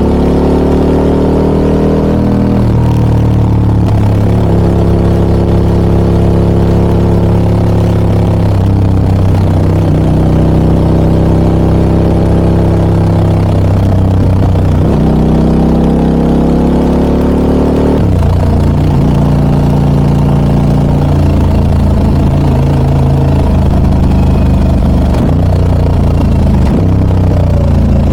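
Harley-Davidson Pan America 1250 Special's V-twin engine through an aftermarket Scorpion exhaust, heard while riding. The engine note rises under acceleration, drops suddenly a few times as gears change, and holds steady between.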